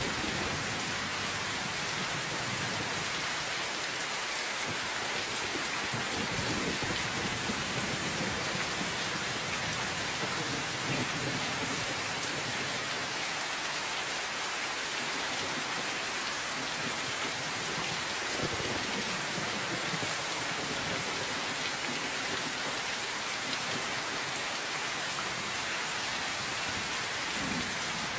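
Steady rain falling, a dense even hiss, with faint low rumbles now and then.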